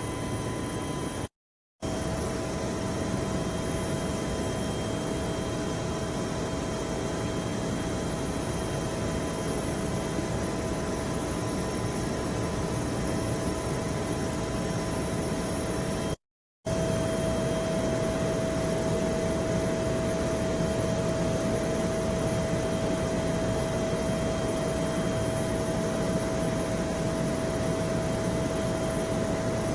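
Steady drone of an aircraft in flight, with a steady whine above it. The sound cuts out briefly twice, about a second and a half in and again past halfway.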